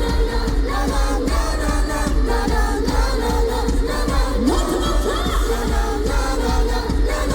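A live J-rock band playing a song over a steady drum beat, with a woman singing the lead; about four and a half seconds in, the voice glides up into a held note.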